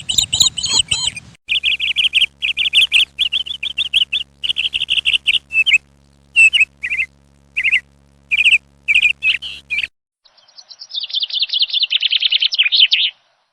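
Small birds chirping in runs of short, quick notes with brief gaps between them. The sound cuts abruptly to a different stretch of chirping about a second in and again near ten seconds in; a faint steady hum sits under the middle stretch.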